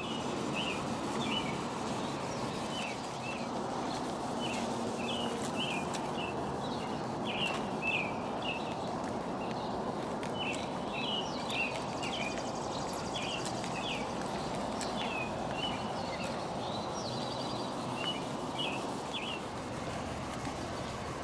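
Small birds chirping in many short, repeated calls over steady outdoor background noise.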